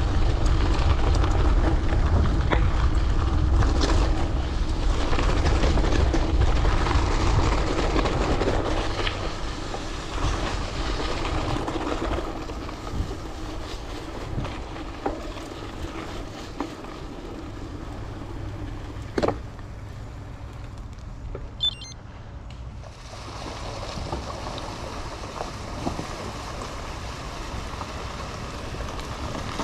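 Riding a gravel bike: wind rushing over the chest-mounted microphone, mixed with tyre and bike rolling noise. It is heavier in the first dozen seconds and eases after that, with a sharp click about 19 seconds in.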